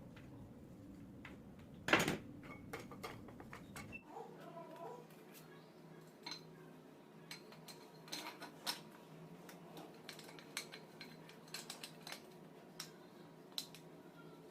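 Metal tools and parts being handled on a workbench: scattered light clinks and knocks, with one loud clank about 2 seconds in.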